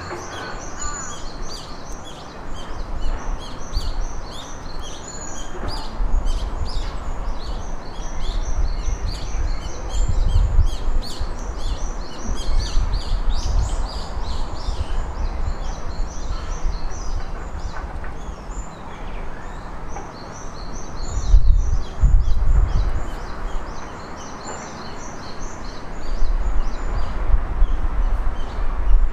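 Small birds chirping rapidly and continuously, with a low rumble underneath that swells at times and is loudest a little past the middle.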